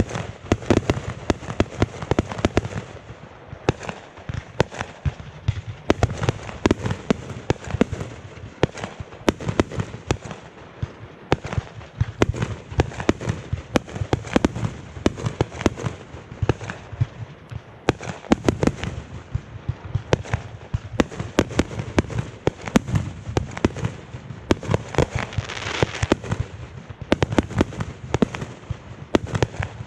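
Aerial fireworks going off in a dense, continuous barrage: sharp bangs several times a second, one on top of the next.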